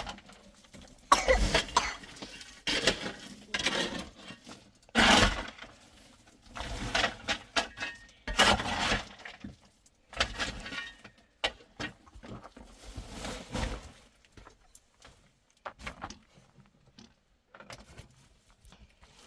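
Irregular scraping and clinking of objects being handled, in bursts about a second long, thinning to a few scattered clicks after about fourteen seconds.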